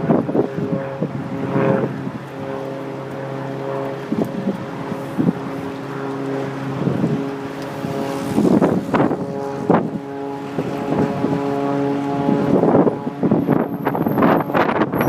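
Aerobatic propeller plane's engine droning steadily overhead, with gusts of wind buffeting the microphone, the heaviest gusts near the middle and near the end.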